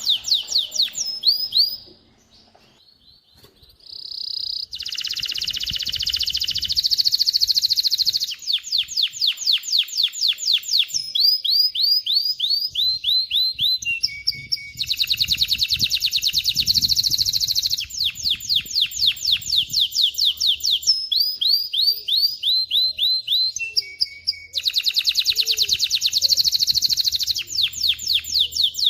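Male canary singing a long song of fast trills: runs of rapidly repeated sweeping notes alternate with buzzy rolls. There is a short pause about two seconds in, and the same sequence of phrases comes round about every ten seconds.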